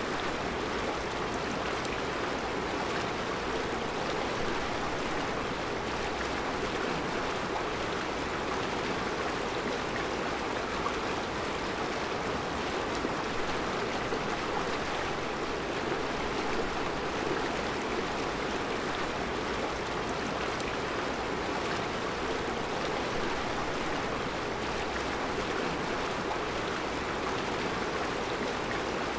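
Mountain river flowing over round rocks in a rocky bed: a steady, even rushing of water.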